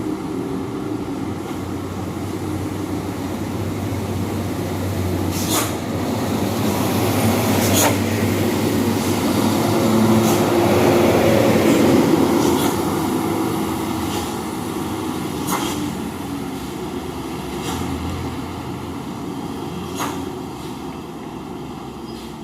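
Heavy diesel dump truck engine driving past, growing louder to a peak about halfway through and then fading. A few sharp clacks sound along the way, likely from the truck's body or load rattling.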